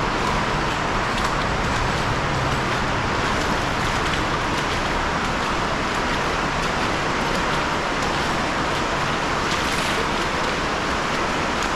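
Steady rush of creek water flowing over rocks, an even hiss that does not change.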